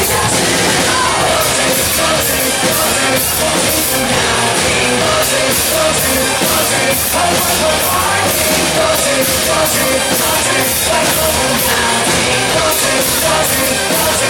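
Loud rock song with a singing voice over a driving drum beat, cymbals struck on a steady fast pulse.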